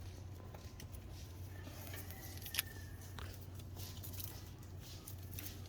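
Scattered light clicks and clinks of hand tools and parts being handled, with one sharper click about two and a half seconds in, over a steady low hum.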